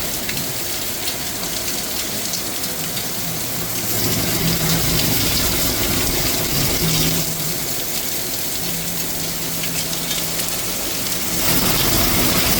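Heavy rain falling steadily, a dense even hiss that grows louder about four seconds in and again near the end, with a faint low hum coming and going underneath.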